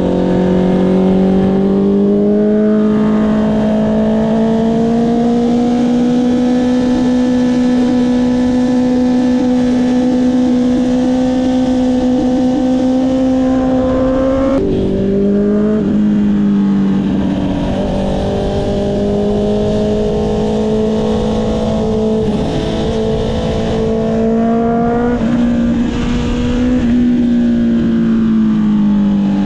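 Honda CB650R's inline-four engine through an Akrapovic exhaust under way. It holds a steady note that climbs slightly, steps down in pitch with a quick gear change about halfway through, then eases down near the end.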